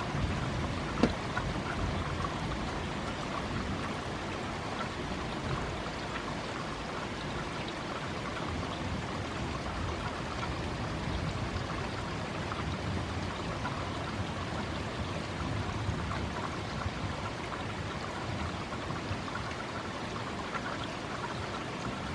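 Steady rain falling during a thunderstorm, an even hiss of water with one sharp click about a second in, a raindrop striking the microphone.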